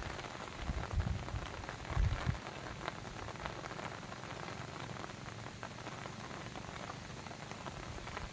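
Steady patter of water, dense with small drop ticks, with a couple of low thumps about one and two seconds in.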